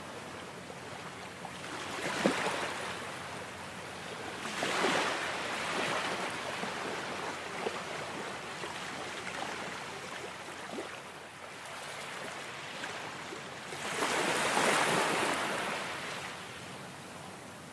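Ocean surf: waves breaking and washing in, in slow swells that rise and fade, with the largest surge about fourteen seconds in.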